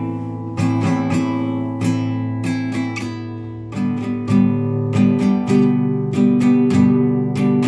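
Classical guitar played solo: plucked arpeggios ringing over sustained bass notes, the notes coming faster from about four seconds in.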